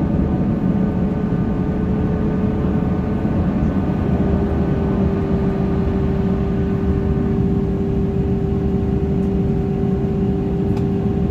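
Airbus A330-900neo's Rolls-Royce Trent 7000 engines and airflow heard inside the cabin after takeoff: a steady rumble with a humming tone that steps slightly lower about four seconds in.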